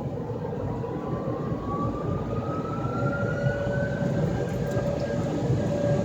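Belanger AirCannon car-wash dryer blowers running with a rush of air. A whine rises in pitch as a blower spins up over the first few seconds, and a steady higher hum joins about halfway through.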